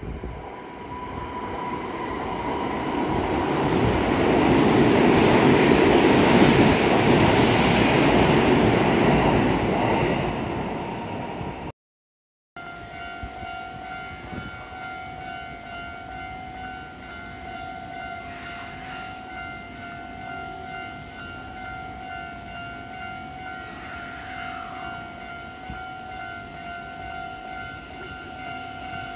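An electric train running into a station, its noise building up to a peak about six seconds in and dying away. After a short break, a railway level-crossing alarm ringing steadily beside a Hanshin 1000 series train at the platform.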